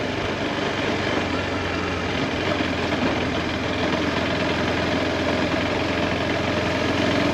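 Motorcycle engine running steadily, an even low hum under a constant rush of noise with no change in pace.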